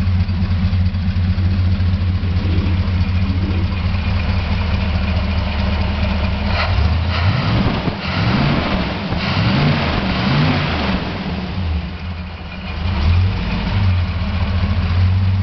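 1956 Chrysler 354 cubic-inch Hemi V8 idling steadily. About seven seconds in it is revved up and down a few times, its pitch climbing and falling back, then it settles back to a smooth idle.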